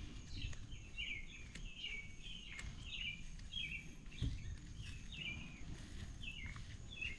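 A small bird chirping over and over, about two short chirps a second, faint over a low steady background rumble. A few faint clicks and a soft thump about four seconds in.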